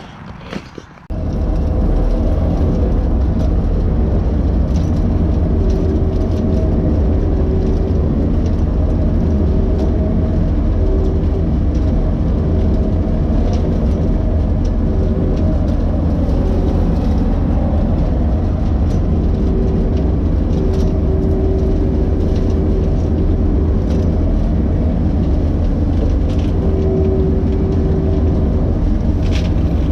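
Skid steer engine running steadily with the bush hog mower, a loud continuous drone with a faint steady whine over it, coming in suddenly about a second in.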